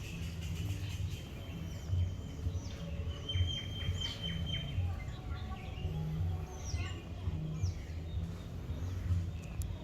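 Several birds chirping and calling, with short falling whistles and one held whistle about three and a half seconds in, over a low uneven rumble.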